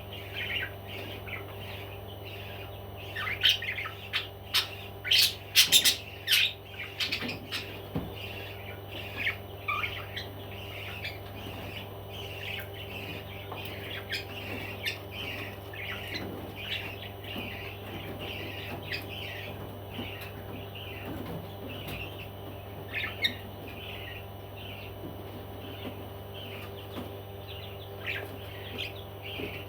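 Pet parrots chirping continually, with a run of loud, sharp squawks about four to six seconds in.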